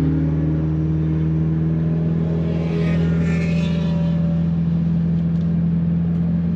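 Car engine running at a constant speed: a steady low drone that holds one pitch throughout.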